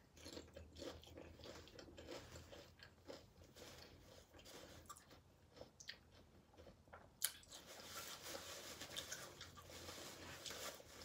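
Close-miked chewing and crunching of tortilla chips loaded with nacho toppings, in irregular bites, with one sharp crack about seven seconds in.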